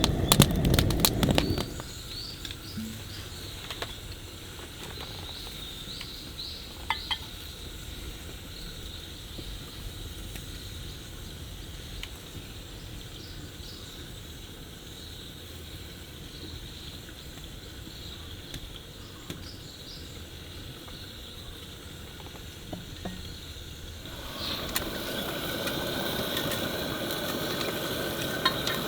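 Quiet outdoor ambience with small birds chirping in short calls. A louder, even hiss comes in about four-fifths of the way through.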